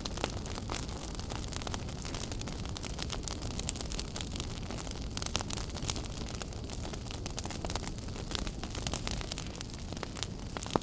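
Wood fire burning in a fireplace, crackling with many irregular sharp pops and snaps over a steady low rumble of flame.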